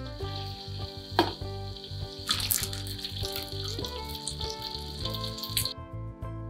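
Dried anchovies (ikan bilis) sizzling in hot oil in a wok as they fry until crisp, with a metal spatula scraping and stirring them a few times; the sizzling drops away near the end. Background music with a steady bass plays underneath.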